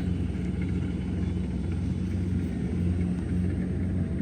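Rice harvester's engine running steadily with a low, even drone.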